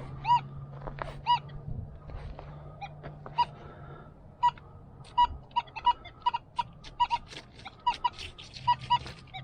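Geese honking again and again, short calls that come quicker and more crowded in the second half.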